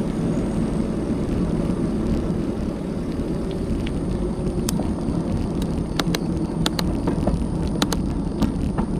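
Bicycle riding noise picked up by an action camera: a steady low rumble of wind and tyres on the road, with a scatter of sharp clicks and rattles in the second half.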